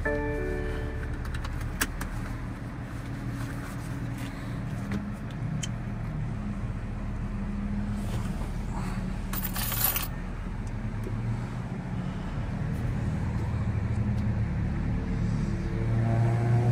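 BMW M340i's turbocharged 3.0-litre straight-six idling steadily, heard from inside the cabin, with a few small clicks and rattles.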